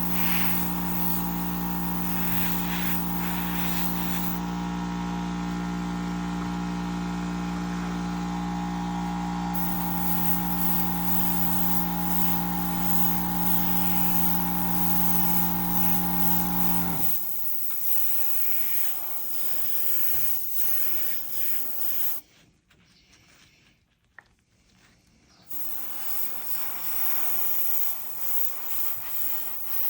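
A small electric motor hums steadily, then cuts off abruptly about 17 seconds in. Fainter hissing and rubbing sounds follow, with a brief near-silence near the end.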